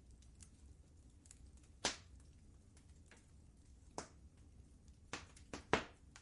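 Fire in a fireplace crackling: scattered sharp pops, one about two seconds in, another around four seconds, and three close together near the end, the last the loudest, over a low steady rumble.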